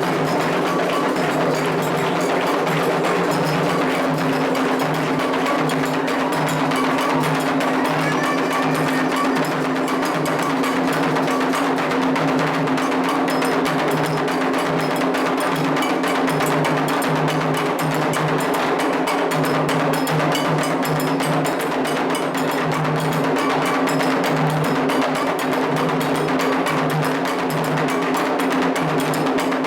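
Candomblé ritual drumming: atabaque hand drums and percussion playing a fast, steady rhythm.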